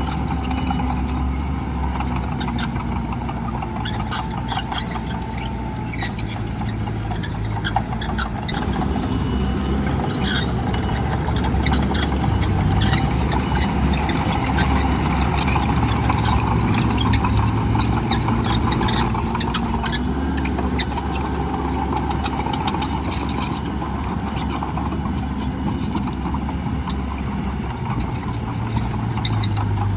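Heavy diesel earthmoving machinery running at a land-fill site, the engine note rising and falling as it works, with frequent clanks and rattles over it.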